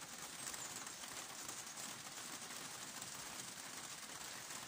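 Light rain from a sun shower falling, a faint, steady patter of drops.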